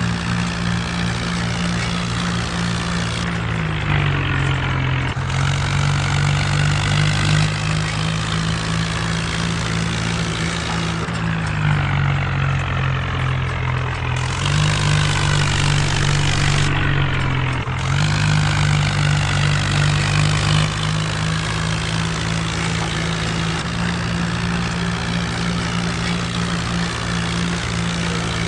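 Mahindra Arjun tractor's diesel engine running steadily while working a rotavator. Its note dips lower three times, about 4, 11 and 17 seconds in, then picks back up.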